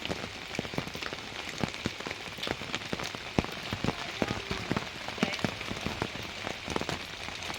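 Rain falling steadily, with many separate drops striking close by at irregular moments.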